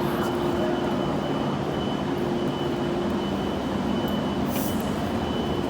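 Train noise: a steady rumble with two constant tones, one low and one high, running evenly throughout, and a brief hiss about four and a half seconds in.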